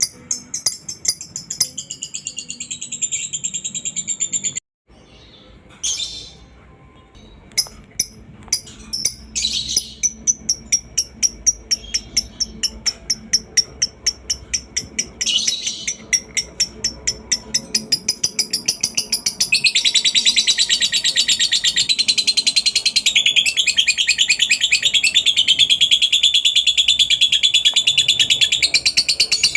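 Lovebird chattering in fast, high, repeated notes, broken by a short silence about four and a half seconds in. From about twenty seconds in it runs into one long unbroken rapid trill, the long 'ngekek' chatter prized in lovebirds.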